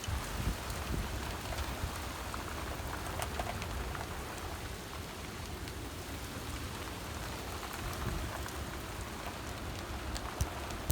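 Heavy thunderstorm rain pouring steadily, with scattered taps of drops. Gusts of wind buffet the microphone with low thumps in the first second or so.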